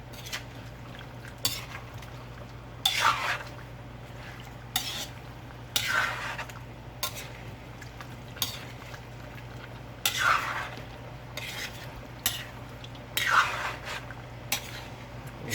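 A metal utensil stirring chicken curry in a cooking pot: long scrapes along the pan every few seconds, with short sharp clinks against the pot between them.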